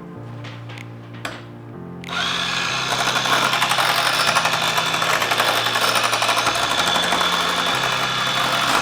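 An electric mixer starts about two seconds in and runs steadily, blending the goat's milk lotion base with added water toward a light lotion. Background music plays underneath.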